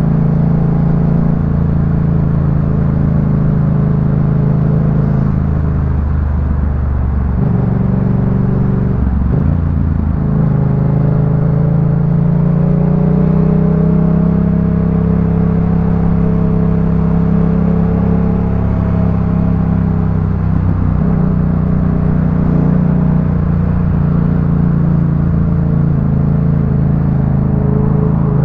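Yamaha MT-07's 689 cc parallel-twin running through a Jeskap K4 full aftermarket exhaust while riding, a steady deep exhaust note. The engine note dips and picks back up a few times between about six and ten seconds in, then holds fairly even with slight rises and falls.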